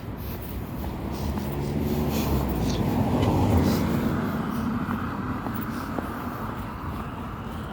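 A motor vehicle passes by, its engine growing louder to a peak about three and a half seconds in, then fading away.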